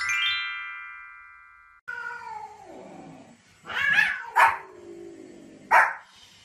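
A ringing chime-like tone fades for almost two seconds and then cuts off. Drawn-out animal cries follow, falling in pitch. Then come loud, short dog barks: two close together about four seconds in and one more near the end.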